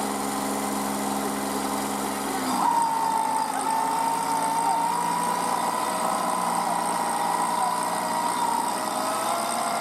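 Kubota NeoStar B2441 mini tractor's diesel engine running. About two and a half seconds in, its low, even note drops away and a steady high whine takes over.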